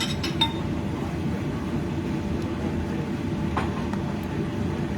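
Steady low rumble of a kitchen range hood fan running, with a few light clinks of dishware just after the start and one more about three and a half seconds in.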